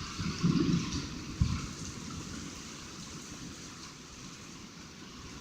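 Heavy rain pouring down, heard muffled from a phone tucked under a coat, with a couple of low gusts of wind buffeting the microphone in the first second and a half.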